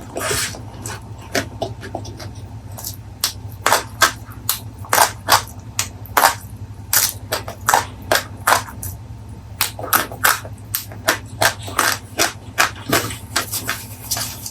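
Close-miked chewing of crunchy food: a quick, uneven run of crisp crunches, about two or three a second.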